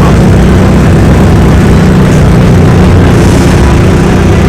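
Car engine running at a steady low drone, its pitch holding even with no revving.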